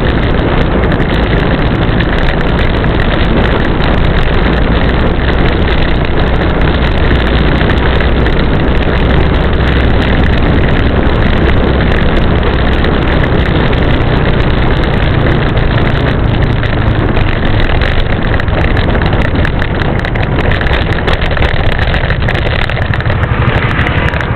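Strong wind blowing, a loud, steady rush with a deep rumble underneath.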